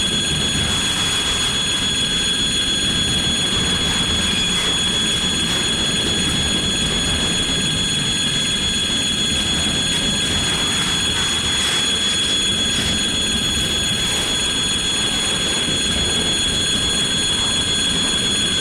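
Freight train rolling past at steady speed, its wagon wheels rumbling on the rails, with a steady high-pitched squeal held throughout.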